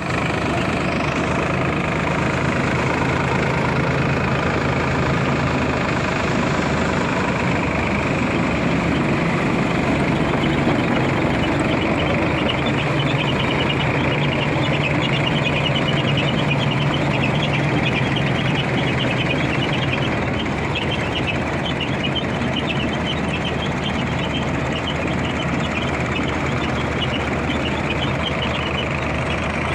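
Sonalika DI 740 tractor's diesel engine running steadily, with a fine rapid ticking over the engine note from about ten seconds in.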